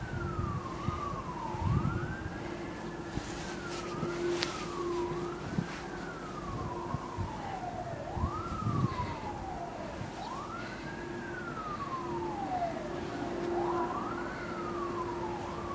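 Emergency vehicle siren wailing: each cycle rises quickly and falls slowly, repeating about every two seconds. Under it are a steady low hum and a few dull thumps.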